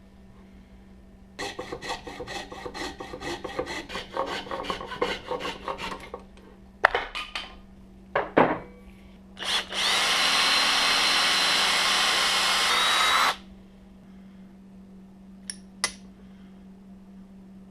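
Hand and power tools working a piece of hickory for a hammer handle: a run of quick, rhythmic scraping strokes, a few sharp knocks, then a power tool runs loud and steady for about three and a half seconds and stops suddenly, followed by two light clicks near the end.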